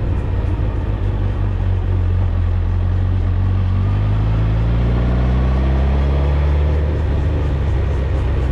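Suzuki GSX-R1000 inline-four engine and exhaust under way, a steady low drone; about four seconds in the revs climb smoothly for a couple of seconds, then ease back slightly and hold.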